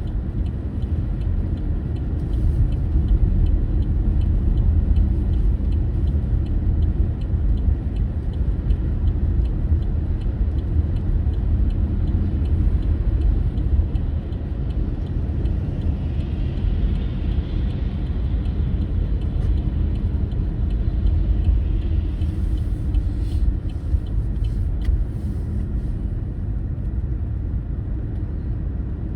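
Car driving, a steady low rumble of road and engine noise, with a few faint clicks late on.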